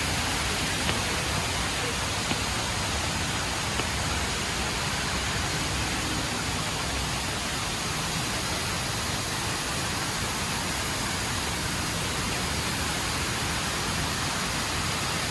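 HSBC Rain Vortex indoor waterfall: a tall column of water pouring into its basin with a steady, even rush, over faint crowd murmur.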